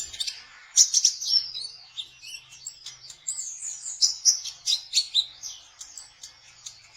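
Kolibri ninja sunbird singing a rapid trotol song: a dense run of high, quick chirps and twittering phrases, with the sharpest notes about a second in and the song thinning out near the end.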